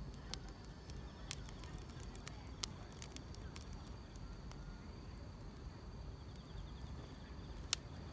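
Wood fire crackling, with a few sharp pops, the loudest near the end, over a low steady rumble. Crickets or other grass insects trill faintly in the background.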